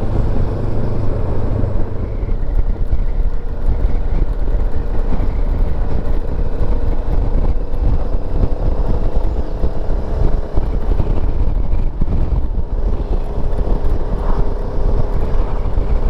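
Motorcycle riding along on the road, its engine running steadily under a heavy low rumble of wind on the helmet microphone.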